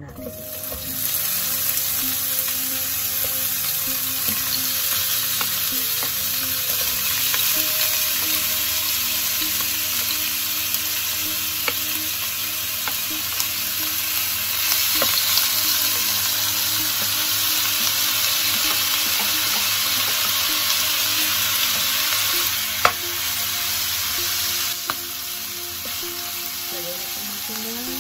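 Chopped chicken tipped into hot oil in a nonstick wok, starting to sizzle about a second in and then frying with a steady hiss while the pieces are scraped in and pushed about with a wooden spatula. There is one sharp knock about three-quarters of the way through.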